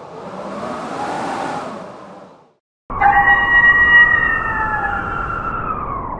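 A rushing whoosh swells and fades, then about three seconds in several wolves start howling together: a few long, overlapping howls that slowly fall in pitch.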